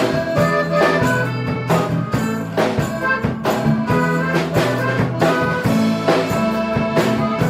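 Live band playing an instrumental passage of the song with no vocals, with a steady bass line, a regular beat and what sounds like a brass part.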